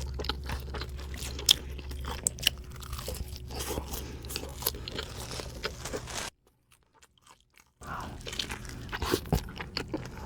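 Close-miked eating: crunchy bites and chewing, broken partway through by about a second and a half of silence.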